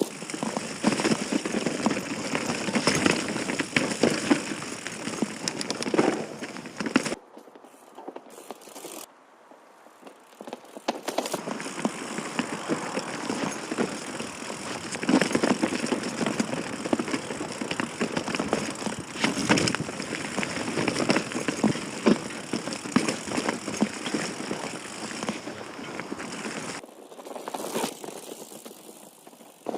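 Ibis Mojo HD3 mountain bike riding over rough trail: tyre noise with the chain and frame rattling over bumps. It eases off twice, for a few seconds after about seven seconds and again near the end.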